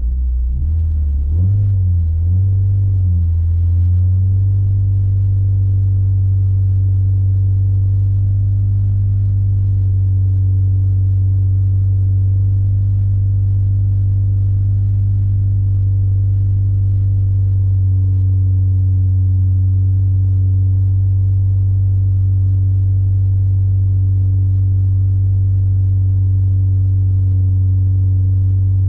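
2012 Renault Clio 200 Cup's 2.0-litre four-cylinder engine heard from inside the cabin while the car sits stationary, the revs wavering up and down for the first few seconds and then held steady.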